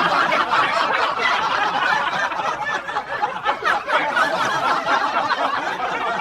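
A crowd laughing together without a break, many voices overlapping, after a punchline.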